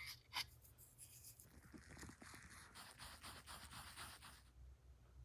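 Faint scraping and small clicks of two-part epoxy being stirred and mixed, lasting about three and a half seconds before stopping.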